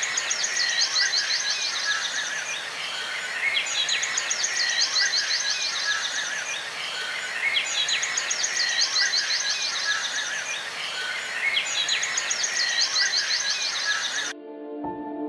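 Chorus of birds chirping and trilling, with fast high trills, in a short recording that loops about every four seconds. A little after fourteen seconds it cuts off suddenly and soft ambient music with held notes begins.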